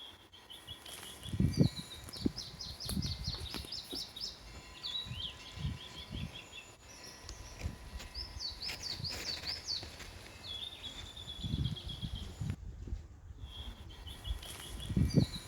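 Songbirds singing repeated phrases of quick, high chirping notes, over intermittent low rumbles and thumps. The sound drops out briefly about two-thirds of the way through.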